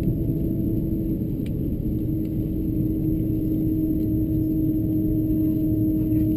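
Steady low rumble of an Airbus A330-223's Pratt & Whitney engines at taxi power, heard inside the cabin, with a constant droning hum.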